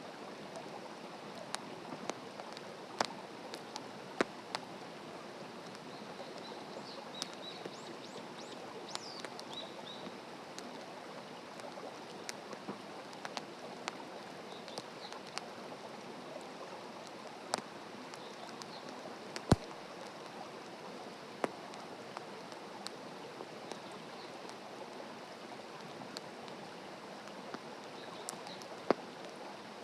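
Wood fire burning in a campfire stand, crackling with scattered sharp pops over a steady hiss; the loudest pop comes a little past the middle. A bird chirps faintly a few times about a third of the way in.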